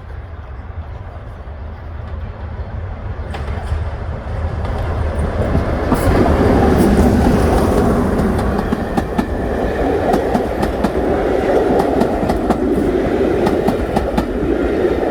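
Class 44 'Peak' diesel locomotive with its coaches approaching and running past, the deep engine rumble steady underneath and the train noise swelling about four seconds in. Wheels click repeatedly over the rail joints as the coaches go by.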